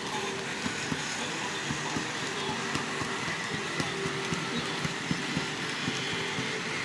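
HO scale model diesel locomotives running on the track: a steady motor whine under a hiss, with many small irregular clicks as the wheels roll over the rail.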